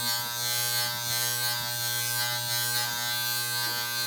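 Electric hair trimmer running steadily with a constant buzzing hum, moved over facial hair along the chin and cheek.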